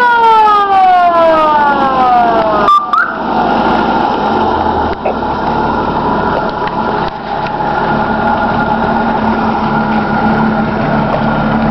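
Fire truck siren sweeping up and down in pitch, then a long falling sweep that cuts off about three seconds in. After it the fire truck's engine runs steadily at idle.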